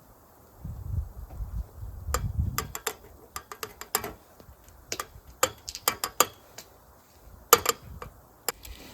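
Irregular clinks and taps of metal and glass kitchenware being handled while making coffee, after a couple of seconds of low handling thuds.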